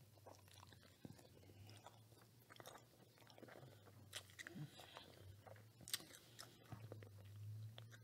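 Faint chewing of a bitten-into crispy fried chicken sandwich, with scattered small crunches and mouth clicks.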